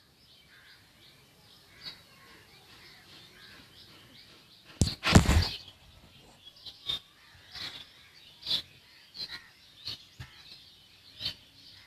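Small birds chirping now and then, in short sharp calls, with a brief loud noise reaching deep into the bass about five seconds in.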